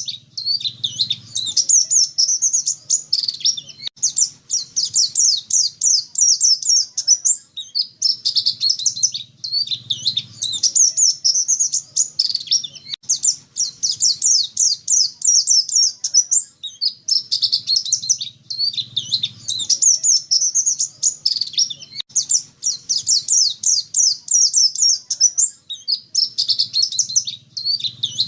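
Pleci dakun white-eye singing: long runs of rapid, high-pitched twittering, each lasting a few seconds, repeated with short breaks between them. It is used as a lure song to draw white-eyes into singing.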